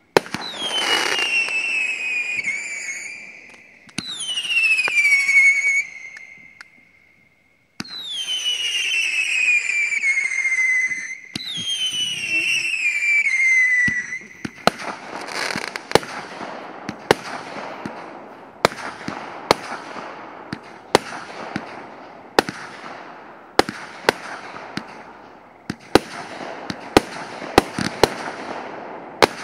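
Fireworks going off. In the first half come four long whistles, each falling in pitch. From about halfway there is a dense run of sharp bangs, roughly one or two a second, with crackling between them.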